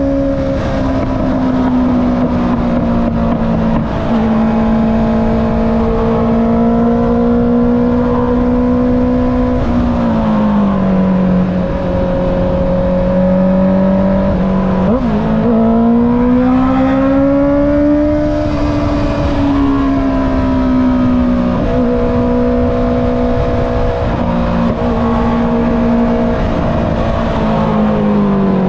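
Honda CB650R inline-four through an Akrapovic exhaust, running under way at steady cruising revs. The revs fall about ten seconds in, climb again from about fifteen seconds after a brief dip like a quick gear change, then hold and fall away near the end.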